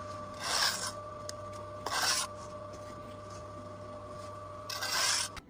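Three short scraping strokes, the last one a little longer, over a steady hum.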